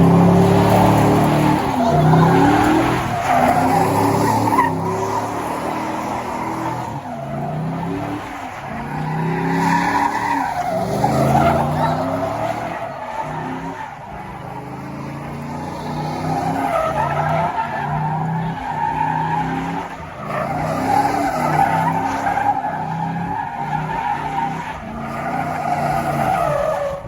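A vehicle doing a burnout: the engine revs up again and again, about every two seconds, over a continuous tyre squeal.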